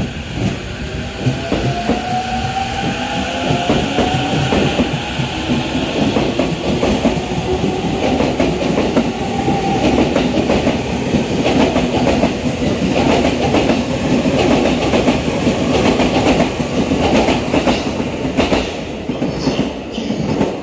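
JR East E231 series 500 electric commuter train accelerating away from the station: the traction motors' whine rises in pitch over the first half while the wheels clatter rhythmically over rail joints. The sound eases off near the end as the last cars draw away.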